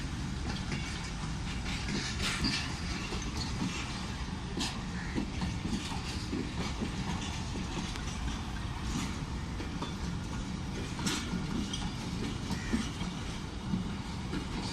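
Pakistan Railways passenger train rolling past as it departs: a steady rumble of wheels on the rails, with scattered clacks as they cross rail joints.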